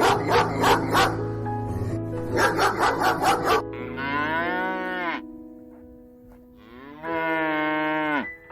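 A dog barking in quick runs for the first three and a half seconds, then a cow mooing twice, two long calls that fall in pitch at the end. Background music plays throughout.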